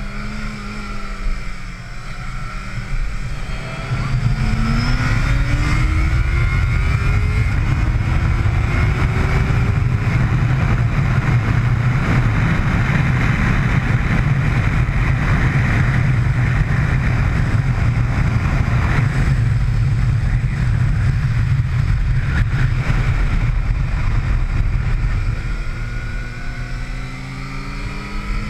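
Sport motorcycle engine pulling hard on a track. Its pitch climbs in two pulls through the gears in the first ten seconds, then runs on as a long, loud, steady rush of engine and wind, and eases off near the end.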